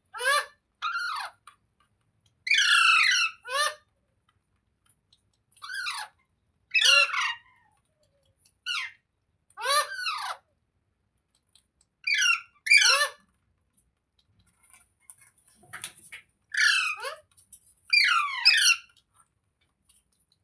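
Parrot calling in short, loud squawks, often in pairs, repeated every second or two.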